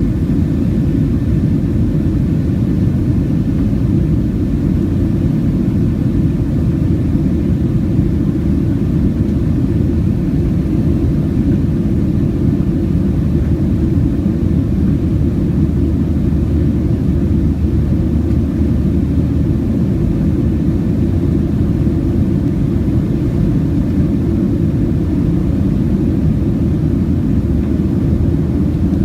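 Steady low rumble of a Boeing 737's jet engines and airflow, heard from inside the passenger cabin.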